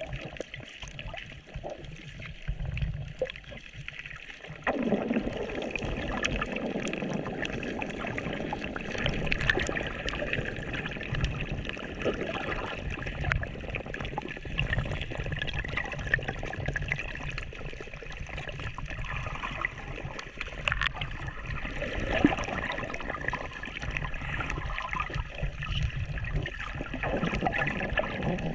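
Seawater sloshing and gurgling around the camera in shallow water, with small bubbly clicks; it grows louder about five seconds in.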